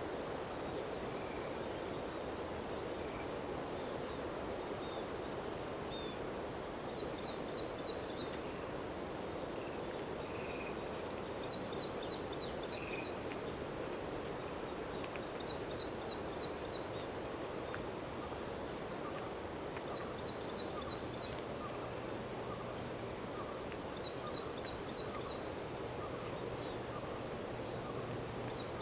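Evening insect chorus of crickets: a steady high-pitched trill, with a short burst of rapid chirps about every four seconds, over a dense, even background din.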